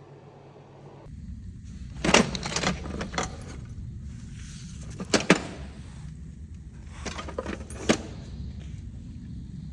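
Bursts of metallic clinks and rattles, about two, five and seven to eight seconds in, from tools or exhaust parts being handled, over a steady low hum that starts about a second in.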